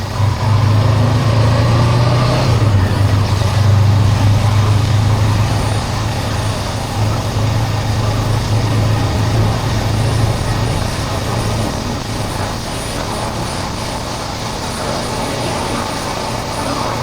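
Honda CB400X parallel-twin engine running under way, a steady low drone over the rush of wind and road noise; about twelve seconds in the engine note drops back and the sound gets a little quieter.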